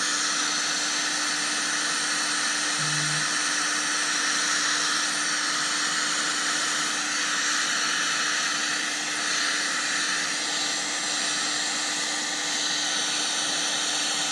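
Heat gun switching on and blowing steadily, a constant rushing airflow with a steady hum, used to shrink heat-shrink tubing onto a LiPo battery.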